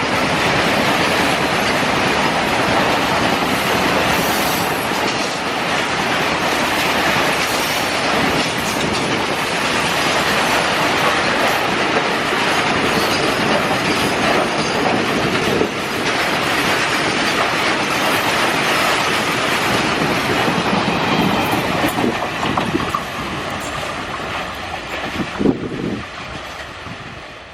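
Long freight train's wagons rushing past at speed, wheels running over the rails in a steady loud noise that fades away over the last few seconds as the train recedes.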